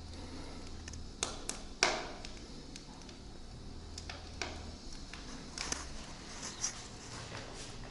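Firewood burning briskly, giving scattered sharp crackles and pops over a low steady hum that stops about halfway through.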